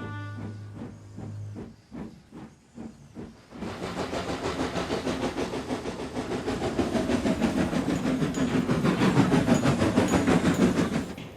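Steam locomotive chuffing with steam hiss: a few slow puffs, then from about four seconds in a steady rapid chuff that grows louder and cuts off suddenly near the end.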